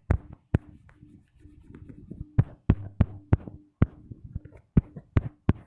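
Irregular sharp taps on a touchscreen while drawing in a phone or tablet app, about a dozen scattered through, over a faint steady hum.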